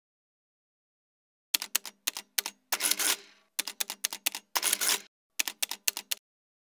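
Rapid sharp clicks and clacks in uneven clusters, with a few longer rattling runs, starting about a second and a half in and stopping shortly before the end.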